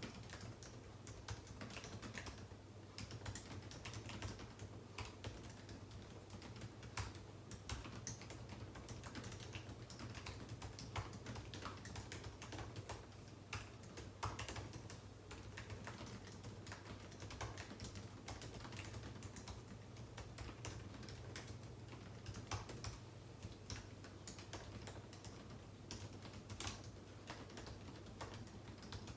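Typing on a computer keyboard: a continuous, irregular patter of key clicks, over a low steady hum.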